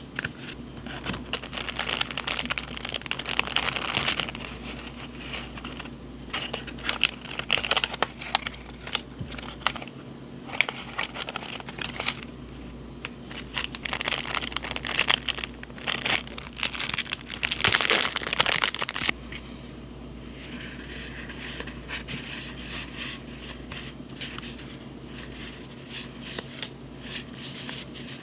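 Paper and packaging being handled close to the microphone, crinkling and rustling with sharp crackles. The handling goes quieter and sparser from about two-thirds of the way through.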